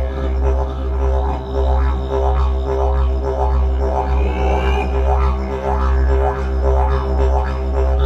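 Didgeridoo playing a steady low drone, with rising high overtone sweeps about halfway through.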